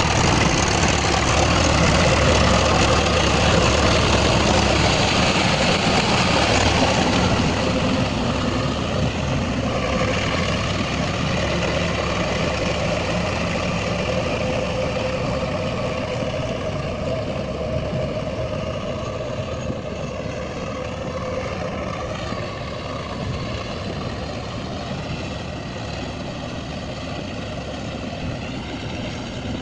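Swaraj tractor's diesel engine running steadily, slowly growing quieter after the first several seconds.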